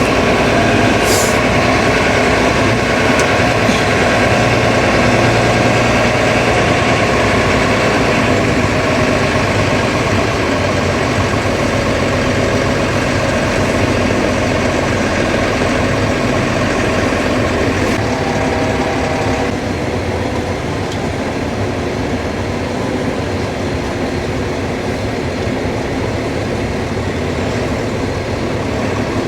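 Engine running steadily, its note shifting and easing slightly about two-thirds of the way through, with a brief high squeak about a second in.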